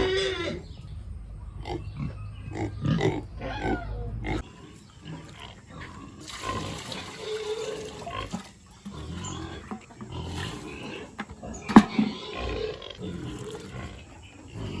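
Pigs making short, irregular calls. One brief sound about twelve seconds in is much louder than the rest.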